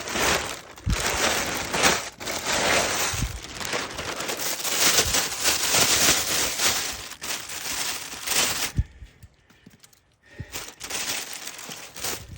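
A bag rustling and crinkling loudly and close up as it is handled, with sharp crackles throughout; it dies down about nine seconds in, leaving only a few faint rustles.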